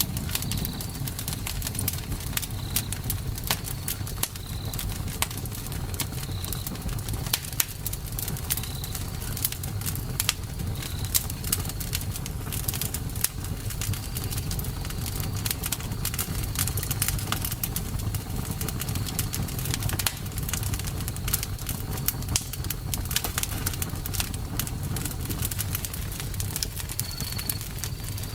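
Campfire burning, with dense irregular crackles and pops over a steady low rumble. A short high chirp recurs every couple of seconds.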